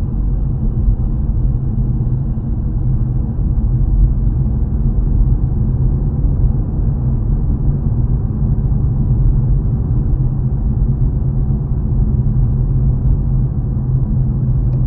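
Steady low rumble of a car being driven, engine and tyre drone heard from inside the cabin.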